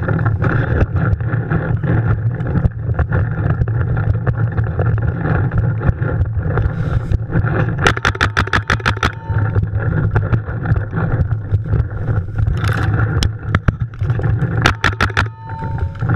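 Paintball markers firing in quick bursts of sharp pops, several shots a second, about halfway through and again near the end, over a steady low rumble.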